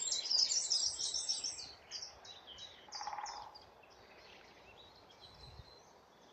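A small songbird singing a rapid run of high, down-slurred notes that thins out and fades after a few seconds. About three seconds in there is a short, lower call.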